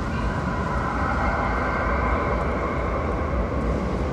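Metro train running through the underground station: a steady low rumble with a high whine that strengthens about a second in and fades toward the end.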